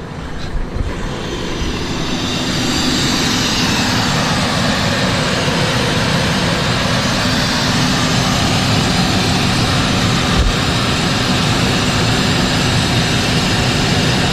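1997 Ford F-150's 5.4 V8 running steadily, with a loud hiss of air being drawn in through its K&N air filter. The sound builds over the first couple of seconds, then holds level. The engine is running without its vacuum leak, which has just been fixed.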